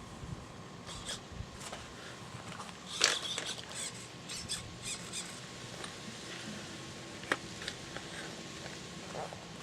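Light, scattered clicks, scrapes and rattles of something being handled, with a louder rattle about three seconds in and a single sharp tick about seven seconds in; no engine is running.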